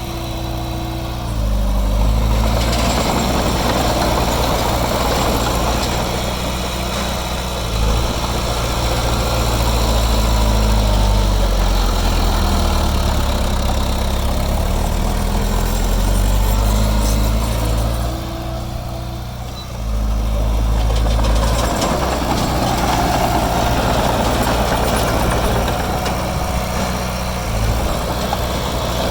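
Diesel engine of heavy earthmoving machinery running under work, its engine note stepping up and down as the load changes. It eases off briefly about two-thirds of the way through, then picks up again.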